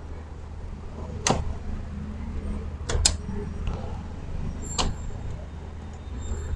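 A few sharp plastic clicks and knocks, one near the start of the second second, a quick double click about three seconds in and another near five seconds, as parts of a Toshiba e-Studio 2303A photocopier are fitted back together after a drum and blade replacement. A steady low hum lies under them.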